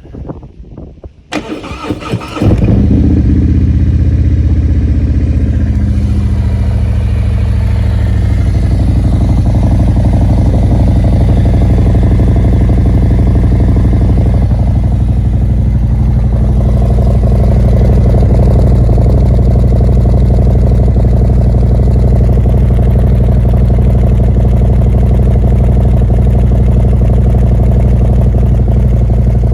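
Harley-Davidson Milwaukee-Eight 114 V-twin with a Khrome Werks full exhaust and torque cams, cold-started: the starter cranks briefly, the engine catches about two and a half seconds in, then settles from its fast cold idle to a steady idle over the next few seconds.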